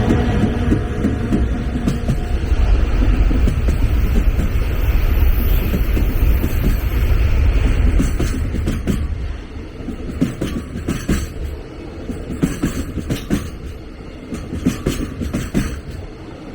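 A train passing close on the line: a heavy low rumble for about the first eight seconds, then the rumble drops away and the wheels click over the rail joints in quick groups.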